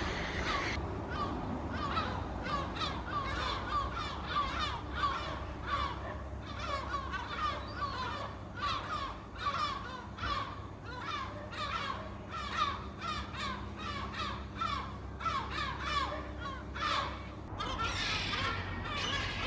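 A flock of gulls calling, many short overlapping cries coming several a second. Near the end the calls stop and a rushing noise takes over.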